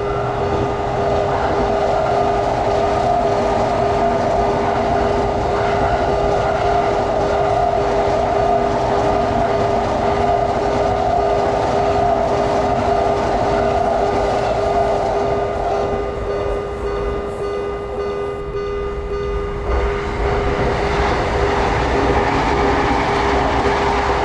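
Electric train running past at a railway level crossing: steady rumble and wheel noise with a steady humming tone over it. The sound eases about two-thirds of the way in.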